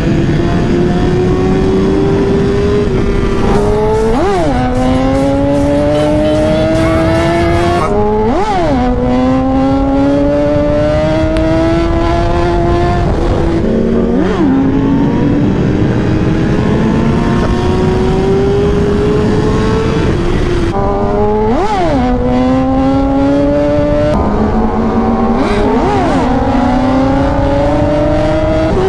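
Inline-four superbike engine running hard, its pitch climbing slowly under throttle. About six times a sharp rev spike is followed by a drop in pitch, like a shift or a throttle blip, and then it pulls again.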